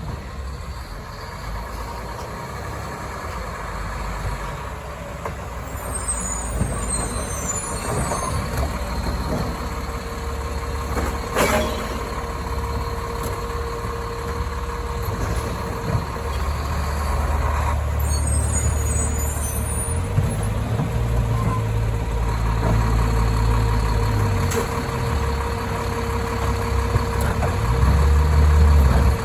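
Labrie Automizer automated side-loader garbage truck working its packing cycle. The diesel engine runs and revs up louder to drive the hydraulics, with a steady hydraulic whine from about halfway through. A sharp clunk comes about a third of the way in, and there are short air hisses.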